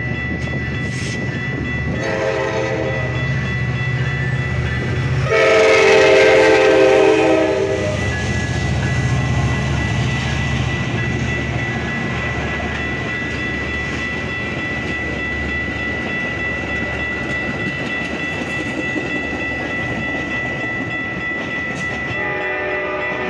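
Metra commuter train passing a grade crossing: its diesel locomotive's horn blows about two seconds in and is loudest around six seconds, over the engine's low rumble. Then the bilevel cars roll past with the clatter of wheels on the rails, and a horn sounds again near the end. The crossing's warning bell rings steadily throughout.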